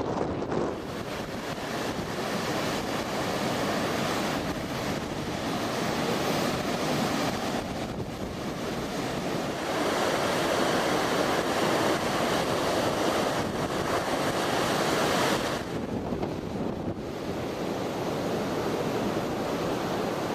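Heavy storm surf breaking, with strong wind blowing across the microphone. The noise swells about ten seconds in and eases off a few seconds later.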